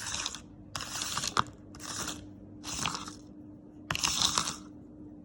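Five breathy, unvoiced puffs of a person's voice about a second apart, hissing sounds with no pitch, like whispered letter sounds, over a faint steady hum.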